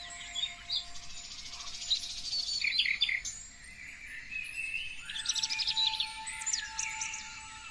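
Several songbirds chirping and singing at once: rapid trills and short rising and falling whistles overlapping each other, easing off briefly near the middle before a fresh burst of calls about five seconds in.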